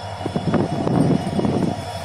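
A train passing close by: a loud, steady rumble with irregular clatter of wheels on the rails.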